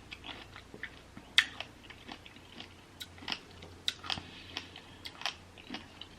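Close-up mouth sounds of someone eating a bowl of berries and pomegranate seeds in coconut water: irregular wet clicks and small crunches as the seeds are bitten and chewed, with one sharper click about a second and a half in.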